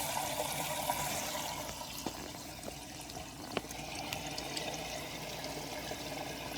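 Water splashing and trickling into a pool skimmer. The pool level is so low that the water barely reaches the skimmer opening. A couple of faint clicks can be heard.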